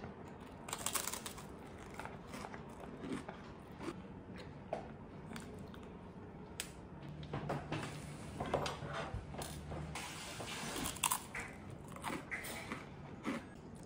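Close-up eating sounds: a person biting and chewing crisp crackers with a bean salad, in a run of short crunches.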